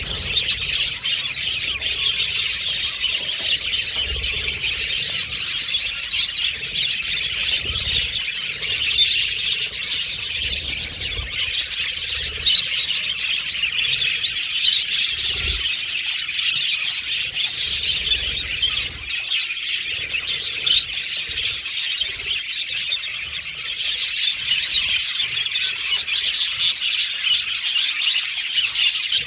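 A flock of budgerigars chattering and warbling continuously, a dense overlapping mix of chirps and whistles.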